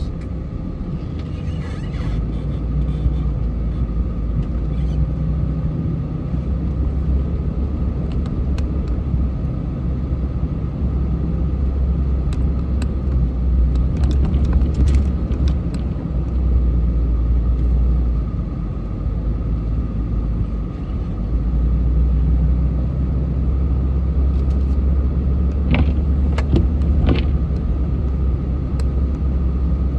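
A car on the move: a steady low rumble of engine and road noise, with a faint steady whine above it and a couple of brief clicks near the end.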